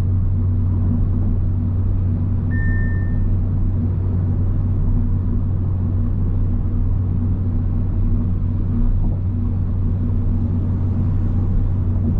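Audi S5 cruising in the left lane, a steady low drone of engine and road noise heard from inside the cabin. A brief high beep sounds about two and a half seconds in.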